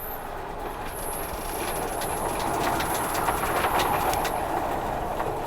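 Gale-force wind gusting through a marina, swelling and easing, with many rapid sharp rattling clicks throughout.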